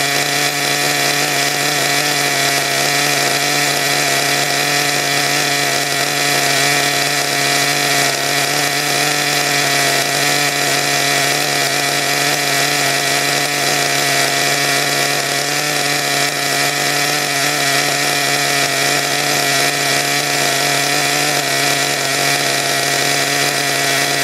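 Nitro engine of a Redcat Earthquake RC truck running steadily at one speed, with no revving.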